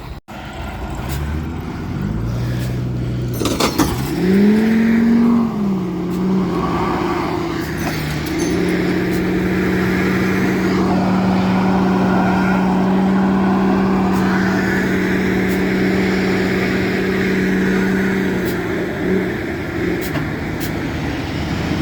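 A vehicle's engine revving up about four seconds in, then held at high, steady revs for about ten seconds while its wheels spin on the ice, before it drops back.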